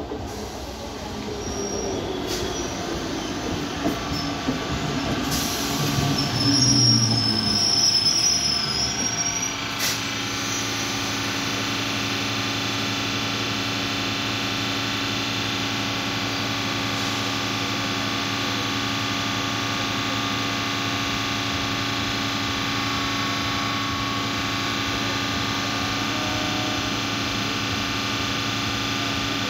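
Electric multiple-unit local train slowing into a station, its drive sound falling in pitch while the brakes squeal high for a few seconds. About ten seconds in it comes to a stop, and the standing train gives off a steady hum for the rest of the time.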